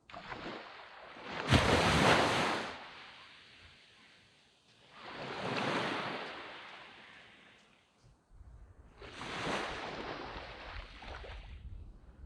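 Sea waves breaking and washing up a sandy beach in three surges about four seconds apart, the first the loudest.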